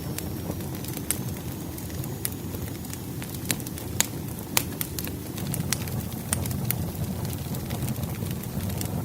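Firewood burning in a fireplace: a steady low rumble of flame with frequent sharp crackles and pops, the loudest about four seconds in.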